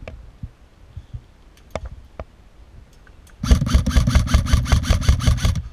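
A Lancer Tactical LT-15 Gen 2 airsoft electric gun firing a full-auto burst of about two seconds: rapid, even cycling strokes over the gearbox's motor hum. Before the burst there are a few scattered sharp ticks.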